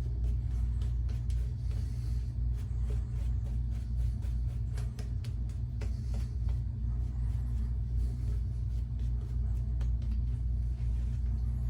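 A steady low rumble, with faint irregular clicks and soft swishes of a shaving brush working soap lather in a small shaving bowl.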